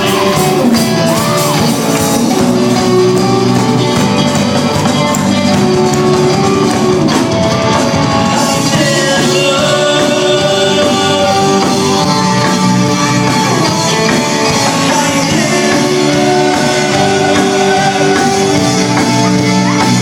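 Live rock band playing loudly, with guitar and sung or shouted vocals, echoing in a large hall.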